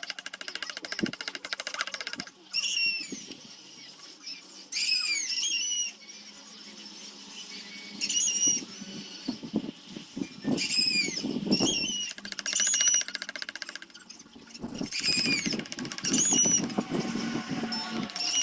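A small bird chirping over and over in short, arching calls. Intermittent scraping and rustling of work or handling noise runs under it.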